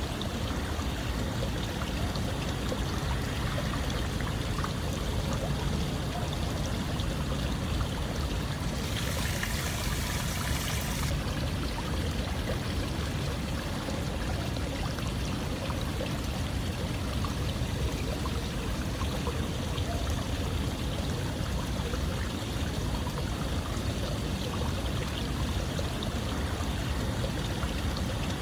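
Running water, like a stream, flowing steadily as a continuous rushing noise. About nine seconds in, a brighter hiss rises over it for about two seconds.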